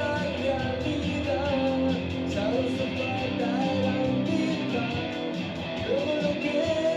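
Live indie rock band playing an instrumental stretch of a song, with a wavering guitar line over the band, picked up by a room microphone.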